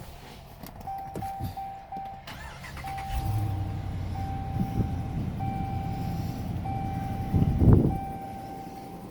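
A vehicle's chime sounds over and over, a steady tone in short beeps at first and then longer ones. About three seconds in, a low steady rumble comes in and stays, consistent with the 2019 Ram Power Wagon's 6.4 Hemi V8 starting and idling. A loud thump comes near the end.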